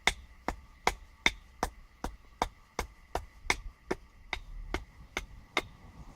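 A wooden batoning stick hammers a blade into a sycamore log that is being carved into a canoe. About fifteen sharp, evenly spaced knocks come at nearly three a second, then stop.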